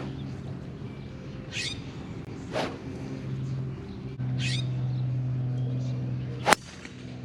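A few short bird calls over a steady low hum, with one sharp crack about six and a half seconds in.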